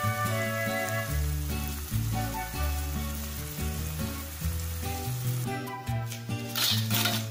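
Food sizzling in a frying pan under background music with a steady bass line. Near the end a louder, sharper sizzle of hot oil in a wok comes in.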